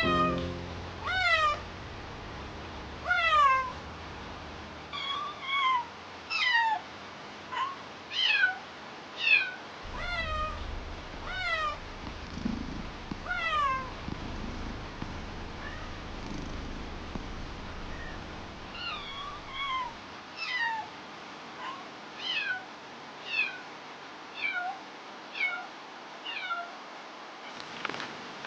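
Kitten meowing over and over, some twenty short plaintive mews about a second apart, each falling in pitch, over a steady background hiss.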